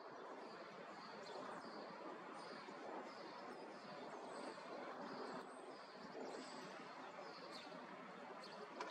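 Faint outdoor ambience: a bird repeats a short high chirp about twice a second over a steady background hiss.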